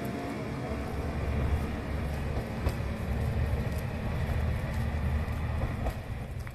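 Akechi Railway diesel railcar running, a steady low rumble with a few sharp clicks.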